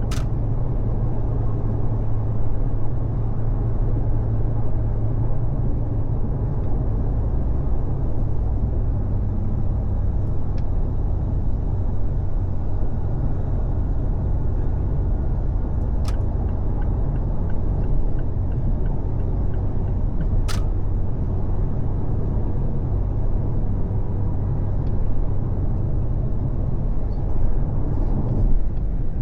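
Car driving at freeway speed: a steady low drone of tyre, engine and wind noise, with a few brief sharp clicks.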